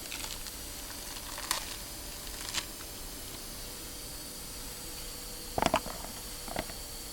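A few short knocks or clinks, loudest as a quick cluster about two-thirds of the way through, over a steady hiss.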